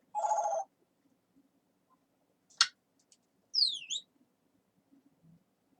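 Pet talking parrot vocalizing: a short pitched call, then a sharp chirp a couple of seconds later, then a quick high whistle that slides down and back up.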